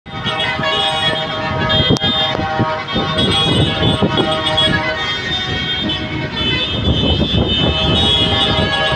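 A heavy vehicle's engine running, with a dense low rumble and several steady high tones held over it, the tones shifting about six seconds in.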